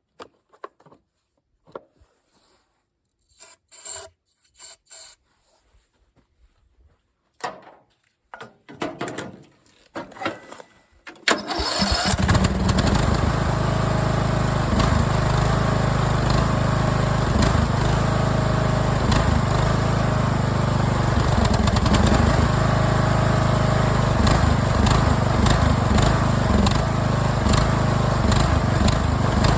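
Scattered clicks and knocks of handling, then about eleven seconds in the replacement small engine of a Craftsman LT1000 riding mower starts and runs steadily.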